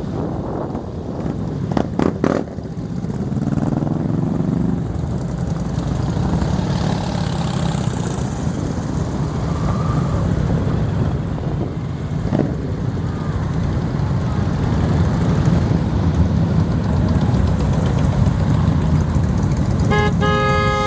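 A crowd of motorcycle engines running and idling, with one revving up about three to five seconds in and a few sharp knocks about two seconds in. A horn starts to sound just before the end.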